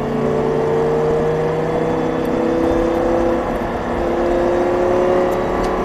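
Audi R8's V10 engine pulling under throttle, its revs climbing slowly and steadily.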